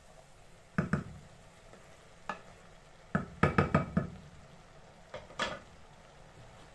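A spoon knocking and scraping against a cooking pot as cabbage is stirred and turned: a pair of knocks about a second in, a single one a little later, a quick run of five or six around the middle, and two more near the end, over a faint steady hiss.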